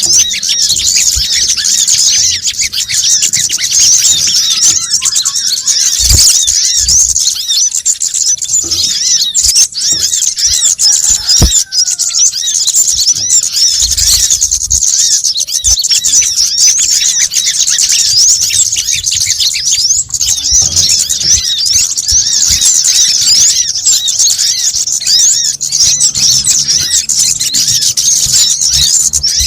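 Dense, unbroken chorus of rapid high-pitched chirps and twittering trills from small birds, the kind of looped lure recording used to call kemade, sogon and kolibri kelapa. A few brief low thumps come through underneath now and then.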